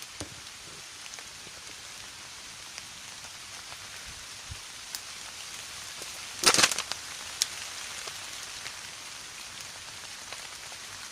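Steady rain falling, an even hiss, with scattered sharp clicks and a brief loud burst of crackles about six and a half seconds in.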